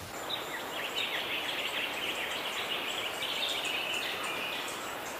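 Birds chirping in a quick, busy run over a steady outdoor hiss, fading a little near the end.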